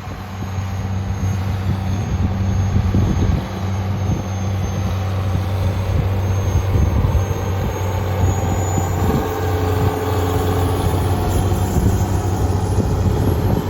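Case 385 tractor's diesel engine running at a steady pitch, a constant low drone.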